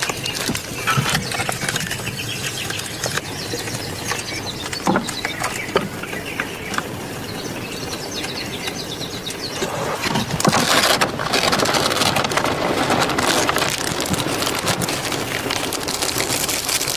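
Heavy rain falling on a tent, a steady hiss with many small pattering ticks, growing louder about ten seconds in.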